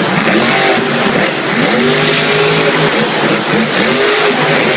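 Monster truck engine revving up and down repeatedly, loud, over a steady wash of arena noise.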